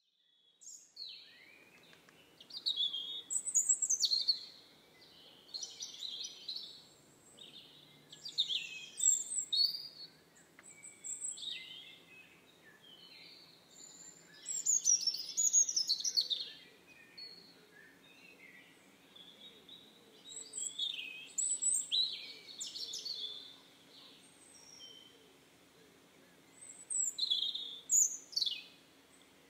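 Songbirds singing in short, high chirping phrases every couple of seconds, with brief pauses between them, over a faint steady low hum.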